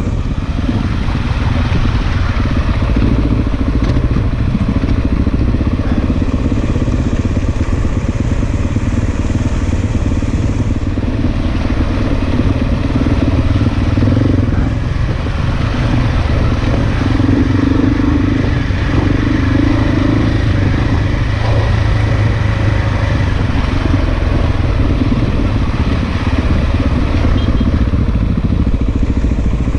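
Big single-cylinder dual-sport motorcycle engine running continuously on a dirt trail, its note rising and falling with the throttle.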